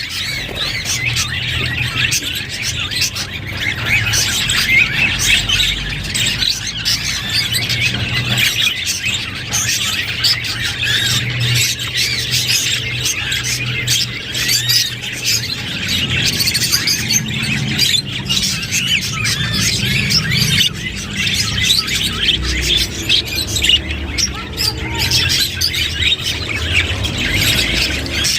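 A flock of budgerigars chattering and warbling without a break, a dense mix of fast chirps and squawks, over a low steady hum.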